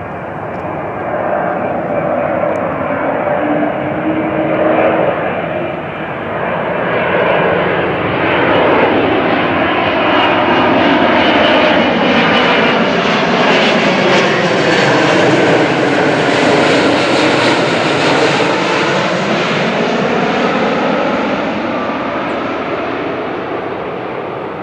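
Jet airliner's engines passing close by on the runway approach, the noise building, holding loud for several seconds with a sweeping, phasing quality, then fading away.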